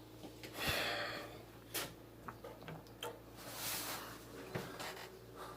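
A person breathing out heavily twice, with a few small clicks and knocks in between.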